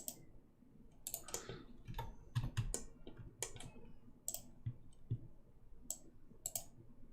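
Irregular clicks of a computer mouse and keyboard, a dozen or more sharp clicks spaced unevenly while someone works at a computer.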